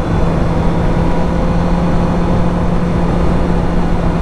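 Honda CB650F inline-four motorcycle engine running at a steady cruise, heard from the rider's helmet mic with a broad wind and road rumble under a held engine note.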